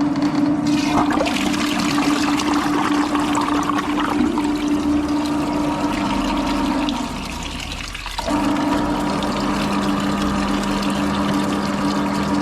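A machine motor hums steadily over rushing, splashing water. The hum cuts out for about a second past the middle, then starts again.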